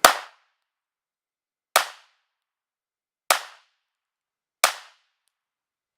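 Four single shots from a 9mm subcompact pistol, fired one at a time at a slow, steady pace about a second and a half apart, each a sharp crack with a short ringing tail.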